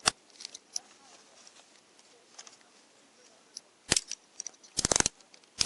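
Metal handcuffs ratcheting shut: short bursts of quick metallic clicks, once at the start and then in several bursts near the end.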